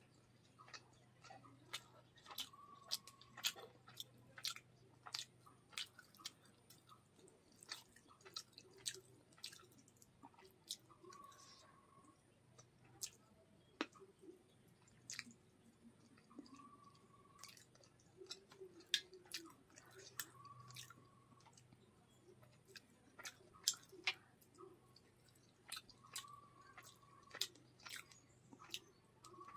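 Close-miked mouth sounds of eating rice and katla fish curry by hand: wet chewing and lip smacks, made of many irregular sharp clicks.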